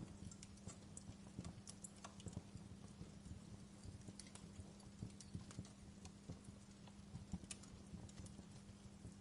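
Wood fire crackling: faint, irregular small pops and snaps of burning wood, several a second, over a steady low hum.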